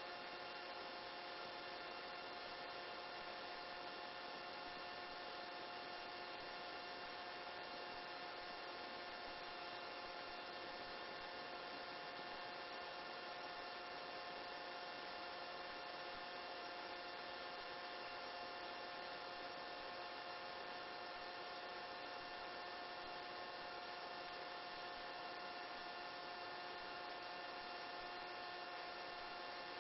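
Faint, steady helicopter cabin hum heard through the intercom line: a fixed set of tones over a hiss that never changes.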